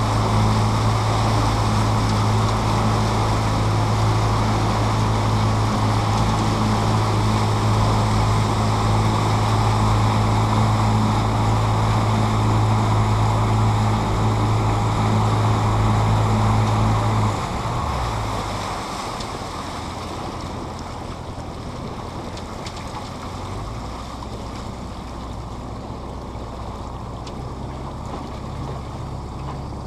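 Tour boat's motor running steadily under way over the rush of water and wind, then throttling back about two-thirds of the way through to a quieter, lower running note.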